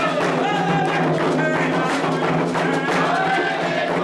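Candomblé ritual music for Oxossi: atabaque hand drums playing a dense rhythm while voices sing a chant with gliding melodic lines.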